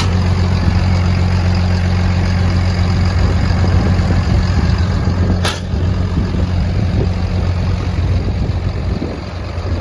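Case 850L XLT bulldozer's diesel engine idling with a steady low hum. A single sharp click comes about halfway through.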